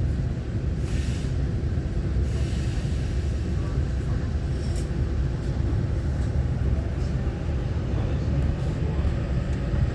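Interior of a Taiwan Railway EMU923 electric commuter train running between stations: a steady low rumble of wheels on the track, with a few faint brief clicks and hisses.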